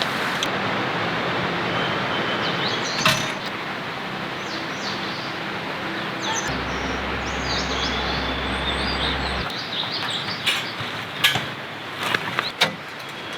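Steady rushing outdoor noise with small birds chirping now and then, and a few sharp cracks or knocks, mostly near the end.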